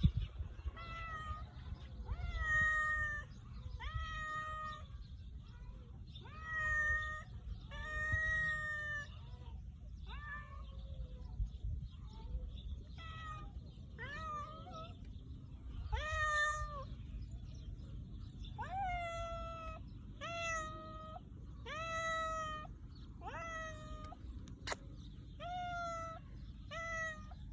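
Domestic cat meowing over and over, one short call every second or two, over a steady low rumble, with a single sharp click near the end.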